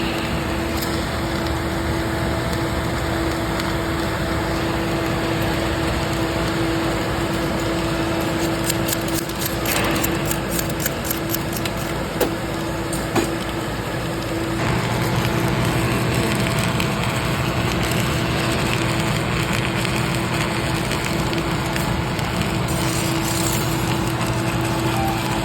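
Submerged arc welding running: a steady crackling noise over a constant hum, with a few sharp clicks near the middle. About two-thirds of the way through, the sound grows louder and deeper.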